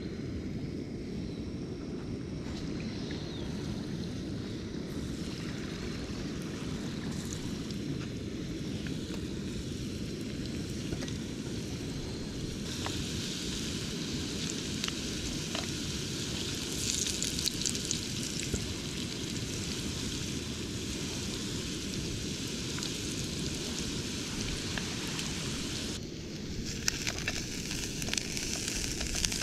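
Food frying in hot oil in a pan on a portable gas camping stove: sizzling sets in about twelve seconds in, with scattered crackles, over a steady low rumble. Near the end it drops out for a moment, then the sizzling returns with more crackling.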